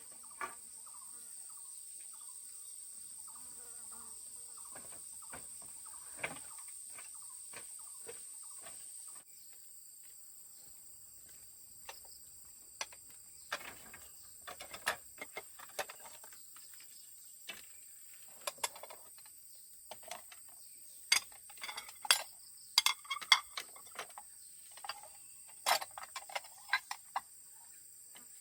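Steady high-pitched insect drone, such as cicadas or crickets, that drops in level about nine seconds in. From about twelve seconds on come many sharp, irregular clicks and knocks, the loudest a little past twenty seconds.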